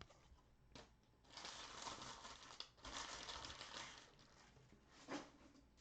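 Plastic wrapper of a trading-card pack crinkling as it is torn open, in two stretches of about a second each, with a few light taps around them.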